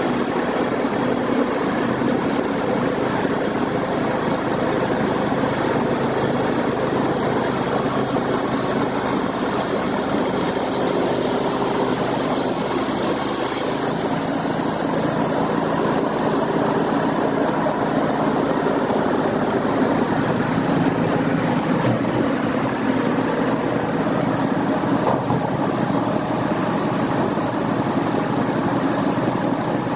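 Sawmill machinery running steadily under engine power, with a dense mechanical noise over the engine; the engine's pitch shifts slightly about halfway through.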